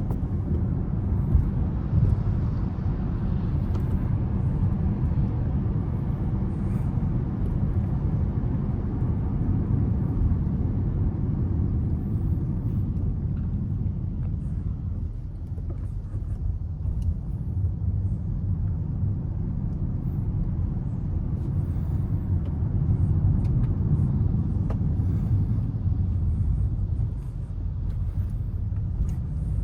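A car driving in city traffic: a steady low rumble of engine and tyres on the road, easing off slightly a couple of times.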